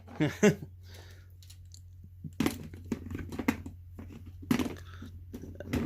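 Toy monster trucks being handled and driven: a scattering of short clacks, scrapes and rattles over a steady low hum.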